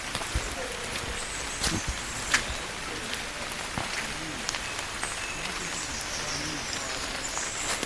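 Marsh ambience: birds chirping high above a steady hiss, with scattered sharp clicks and ticks throughout.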